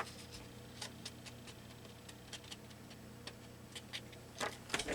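Light, irregular taps and clicks, a few a second and a little louder near the end, from dabbing an ink pad along the edges of a paper tag on a craft desk, over a faint steady low hum.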